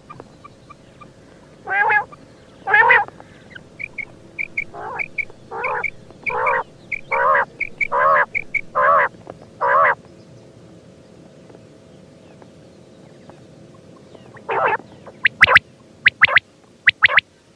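Quail calling: a run of short repeated calls, about one a second, then after a pause a quicker burst of sharper, higher calls near the end, over a faint steady hum.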